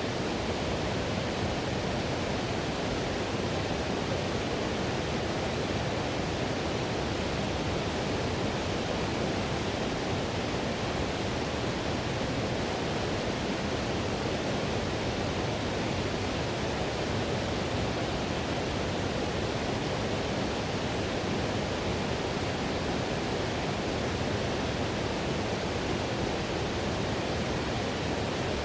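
River whitewater rushing steadily, an even roar of running water with no breaks.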